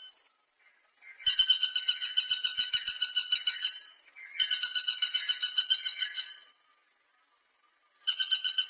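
Woodpecker calling in fast, even-pitched rattling series of about ten notes a second, each series lasting about two and a half seconds, three times with short pauses between.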